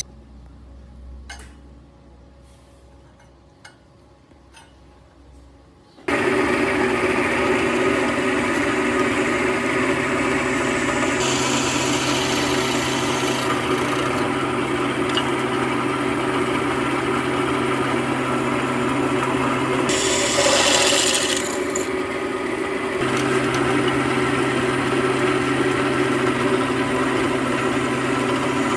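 A few light clicks, then a motorised tool switches on about six seconds in and runs steadily with a constant hum. A brief harsher, hissier stretch comes about two-thirds of the way through.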